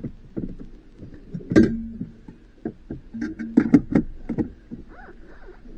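Scattered clicks and knocks of hand tools and parts being handled during radio installation work, with a faint steady hum. The sharpest knock comes about one and a half seconds in, and a quick run of clicks follows a couple of seconds later.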